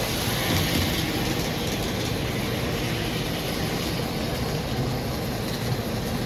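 N scale model train running steadily on its track, a continuous whir of the small locomotive motor and the wheels rolling on the rails, over a steady room hum.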